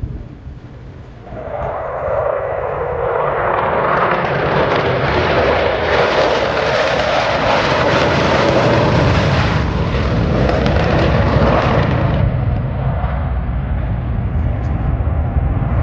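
Blue Angels F/A-18 Super Hornet jets passing overhead. A loud jet roar builds from about a second in, is strongest through the middle, then drops back to a low rumble.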